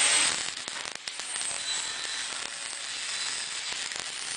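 A steady crackling hiss made of many small, rapid clicks, mostly high-pitched, after a louder hiss dies away at the start.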